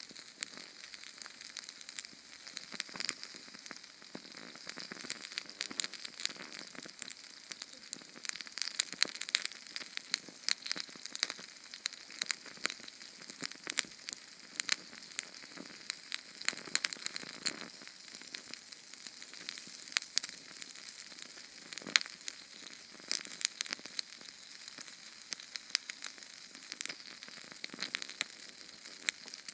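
Small Sterno gel-fuel flame burning: a faint steady sizzling hiss with frequent sharp crackles and pops.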